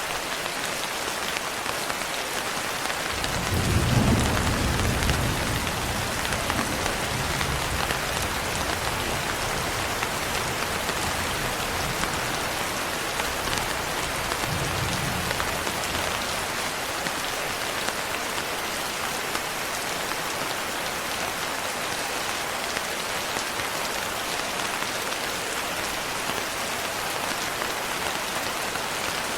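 Steady heavy rain pattering, with a roll of thunder rumbling in about three seconds in and fading over several seconds, and a fainter rumble of thunder about halfway through.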